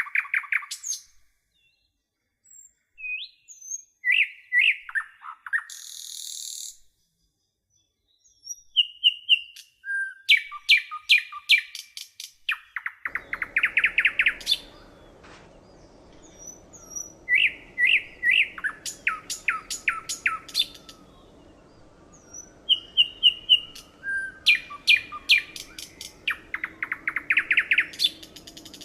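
A songbird singing: phrases of short, clear high notes that end in a fast trill, repeated about three times with single chirps in between. A faint low background hum comes in about halfway through.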